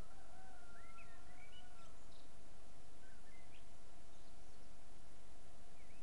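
Faint birdsong over a steady background hiss: one long held whistle for about the first two seconds, with short upswept chirps scattered through the rest.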